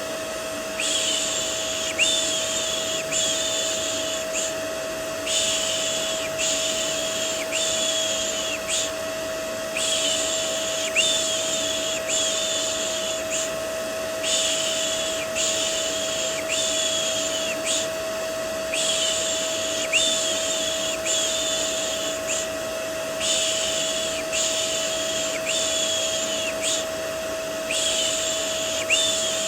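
Vacuum cleaner white noise running steadily with a constant motor whine, mixed with a looped 'shh' shushing sound. The shushes come about once a second, in runs of several with short breaks between, as a baby-soothing white-noise track.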